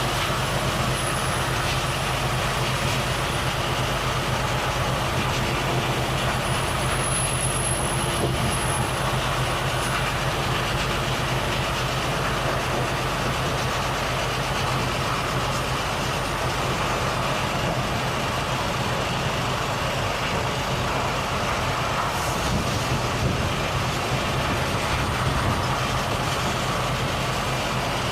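Volvo FH truck's diesel engine running at a steady speed with constant tyre and road noise while cruising.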